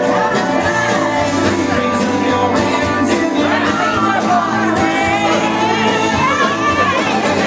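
A live band playing a song with a lead singer over guitar and a steady low end.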